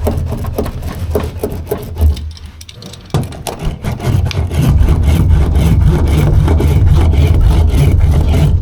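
Rubbing, scraping and short knocks as a sound-insulation sheet is handled and pressed onto the truck cab's metal panel, with a heavy low rumble that runs steadily from about three seconds in.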